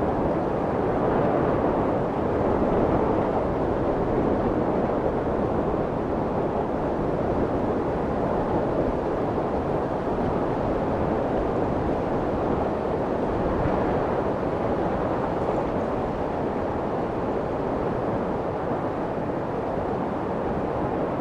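Steady, deep rushing white noise of the kind played to soothe a crying baby, meant to imitate the sound of the womb. It rises and falls slightly in loudness.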